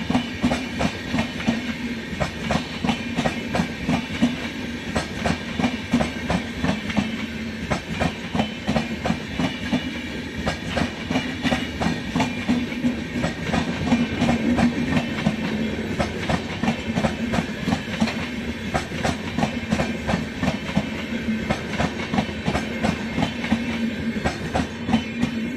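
A train running past at speed, its wheels clattering over rail joints in a fast, even rhythm over a steady rumble.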